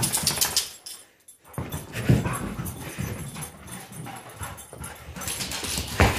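A dog scrambling about in play, its paws clattering and scuffling on the floor, with brief dog noises and a short pause about a second in.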